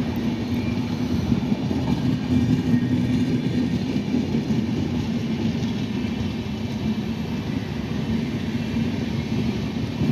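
Passenger train coaches rolling past on the adjacent track: a steady rumble of steel wheels on the rails, with a low hum.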